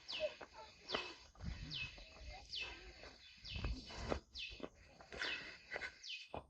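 A bird repeating a short, high, falling whistle about once every second, evenly spaced. Low thuds and rustling run underneath.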